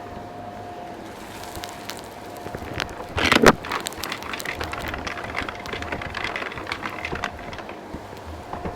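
Vacuum cleaner running and sucking up crunchy dirt and debris: a steady motor tone under a continuous crackle of grit going up the tool, with one loud rattling burst about three seconds in.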